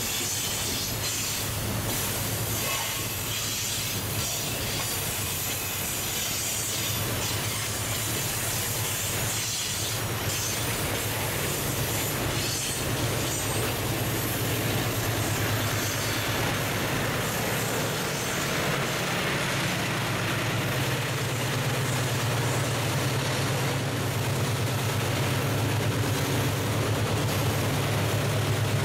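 Freight train rolling past on a curve, steel wheels clattering and squealing, with the low drone of diesel locomotives growing louder as they draw close toward the end.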